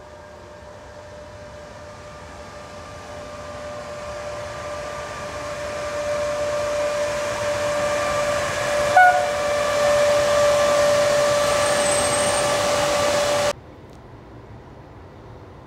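Electric locomotive hauling a passenger train approaches and passes, growing steadily louder: a steady high whine over the rolling noise of the wheels, with a short sharp click about nine seconds in. The sound cuts off suddenly near the end, leaving a faint steady background.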